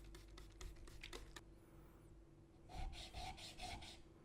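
Steel blade rubbed on a wet diamond sharpening plate while its bevel is ground flat. Light clicks and taps come first, then about four rasping back-and-forth strokes near the end.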